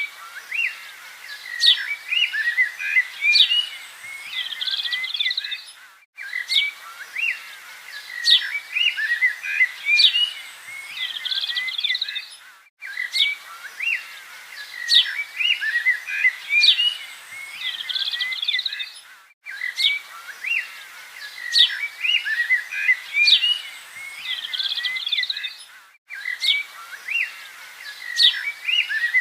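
Many birds chirping and twittering in quick, overlapping calls. The recording repeats as a short loop, with a brief break about every six and a half seconds.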